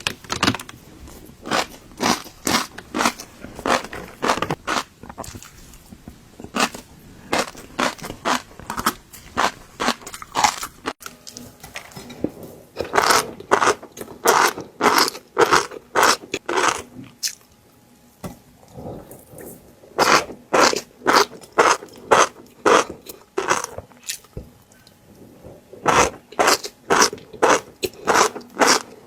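Close-miked crunchy chewing of fish roe: a steady run of crisp crunches and pops, about two to three a second, with two short pauses.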